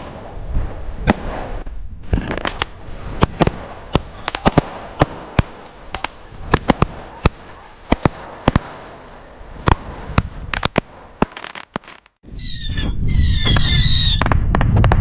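Fireworks going off: a rapid run of sharp pops and crackling bangs over a hissing background. About twelve seconds in the popping stops and gives way to a loud low rumble with wavering high whistles.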